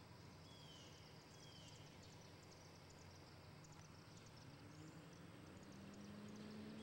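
Faint outdoor ambience over floodwater: a bird gives two short falling whistles in the first two seconds among faint high chirps, and a low hum rises slightly and grows a little louder near the end.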